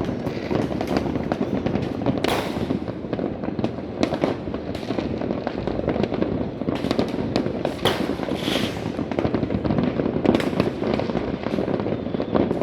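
Many fireworks and firecrackers going off at once in a dense, continuous crackle, with louder single bangs standing out every few seconds.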